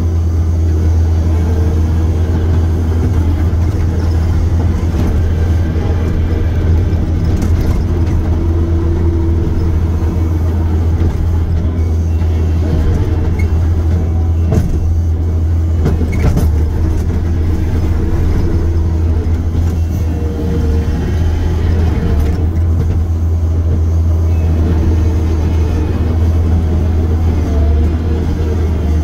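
Diesel engine of a piece of heavy equipment running steadily with a deep, constant drone, with a few brief knocks over it.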